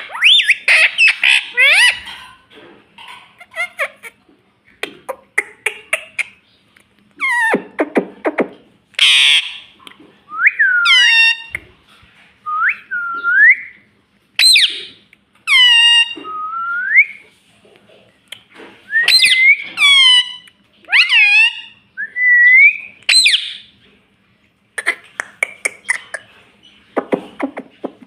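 Pet parrot whistling and chirping: a string of short, hooked whistles that swoop up and down, mixed with harsher chattering calls, in bursts with short pauses between them.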